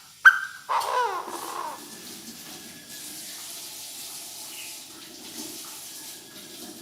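Chinese francolin decoy bird calling: a sharp loud note, then a loud harsh call of about a second that falls in pitch, after which only a steady low background hiss remains.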